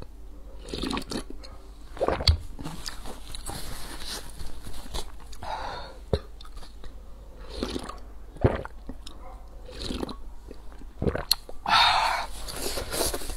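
Close-miked eating sounds: chewing and swallowing with wet mouth clicks and smacks, and several sharp clicks. Near the end comes a short, loud, breathy rush of air.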